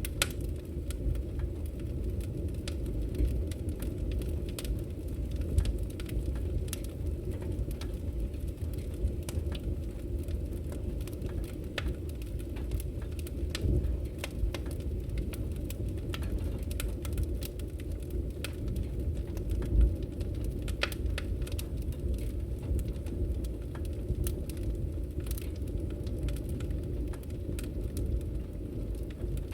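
Wood fire burning in a fireplace: a steady low rumble of flames with frequent sharp crackles and pops of burning firewood, a few of them louder.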